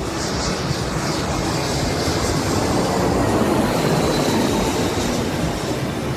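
Jet airliner engines passing close, a loud roar that swells and then eases off, with a faint high whine over it.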